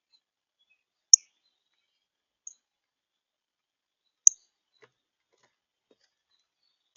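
A small songbird giving single sharp, high chip notes, four times, spaced a second or more apart, one of them with a click.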